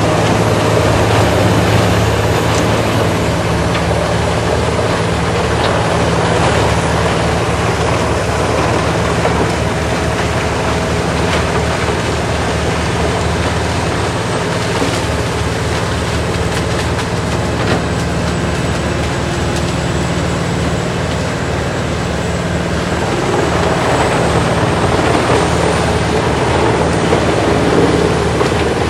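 A Morbark tracked horizontal grinder's big diesel engine runs steadily under load while the machine grinds tree tops and branches, with scattered sharp knocks as the wood breaks up.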